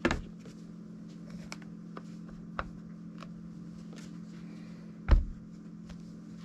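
Scattered clicks and light taps of knife-sharpening gear being handled, with a heavier knock about five seconds in, over a steady low hum.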